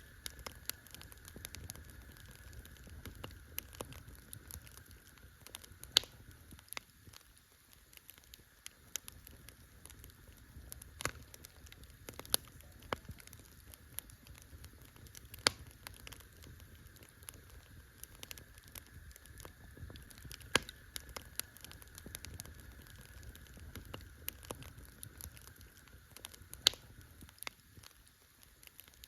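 Wood campfire crackling: irregular sharp pops and snaps, a few of them much louder than the rest, over a low, steady rustle of the burning fire.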